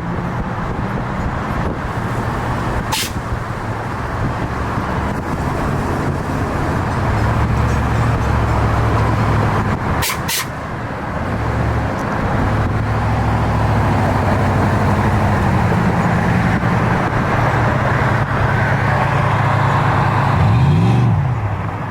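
Car engines running with a steady low rumble of street traffic, growing louder about seven seconds in. Near the end an engine's pitch swings up and down, and two short sharp clicks break through early and midway.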